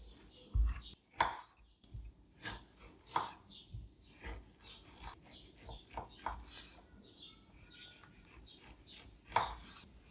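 Irregular knocks and taps of kitchen food preparation, like a knife striking a cutting board. There are a few taps a second at most, with a sharper knock near the end.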